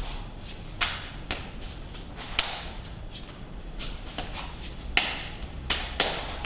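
Sharp slaps of hands and forearms striking and parrying in a Wing Chun pak-and-fak partner drill: about six irregular hits, the loudest about two and a half and five seconds in.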